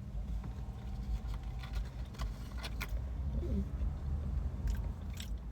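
Someone chewing a hash brown, with scattered faint crunchy clicks over a steady low rumble.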